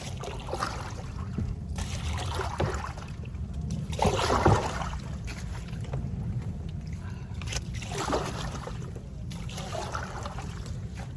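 Kayak paddle strokes in lake water: a swish and trickle of water every couple of seconds, the loudest about four seconds in, over a steady low rumble.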